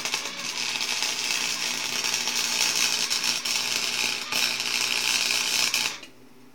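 Electric arc welding on a lawnmower differential's spider gears, welding them solid to lock the differential: a loud, steady crackling sizzle of the arc that stops suddenly about six seconds in as the arc is broken.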